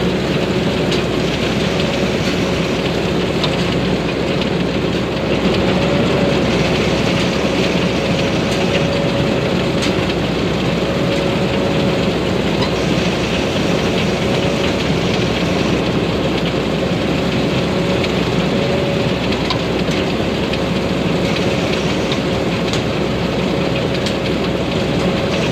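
TAMCO S9000 rice combine harvester, with a Hino J08C diesel engine, running steadily under load while harvesting. A steady whine sits over the engine noise, with a few faint ticks.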